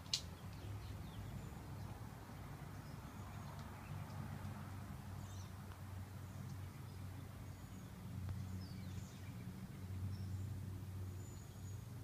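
Faint, scattered short chirps and calls from small birds over a steady low background rumble, with one sharp click right at the start.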